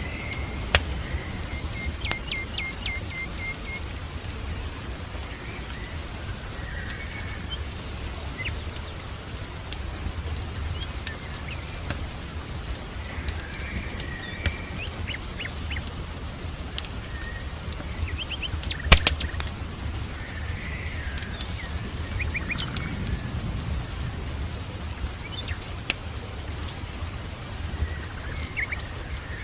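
Birds chirping and calling on and off, including a quick run of repeated notes a few seconds in and a high thin whistle near the end, over a steady low rumble. Scattered sharp pops, like a crackling fire, come through now and then.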